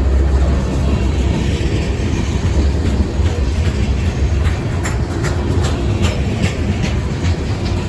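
A train rolling past with a steady low rumble. From about three seconds in, its wheels clack repeatedly over the rail joints.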